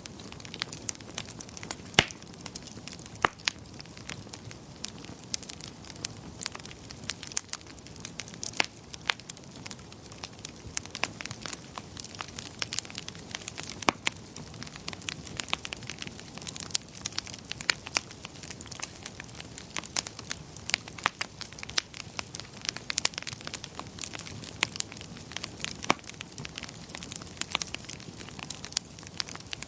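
Wood fire crackling and popping: frequent irregular sharp snaps over a steady low rumble of flames.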